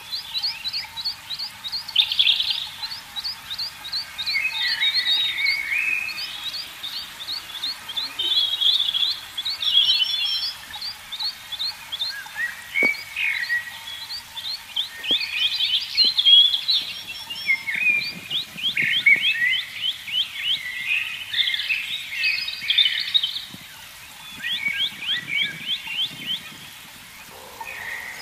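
Small birds chirping and twittering, in quick trills of short high notes, with one call following another throughout.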